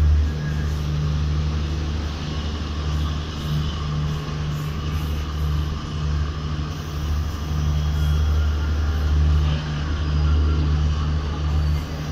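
Passenger train running through a station, heard from the moving coach: a steady low rumble from the wheels and running gear, with air rushing past the phone's microphone so that the rumble wavers in strength.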